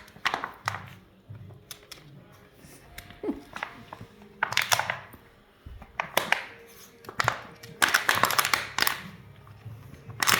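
Plastic bottle inside a plush cup-shaped dog toy crinkling in irregular bursts as a Yorkie puppy plays with it, with a cluster of crinkles near the end.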